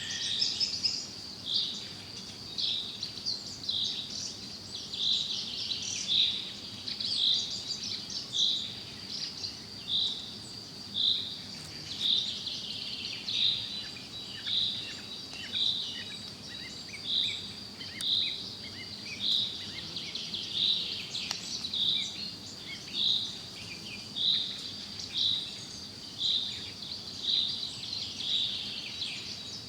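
Forest birdsong: a short high note repeats about once a second, with other birds chirping around it. A steady thin high-pitched tone runs beneath.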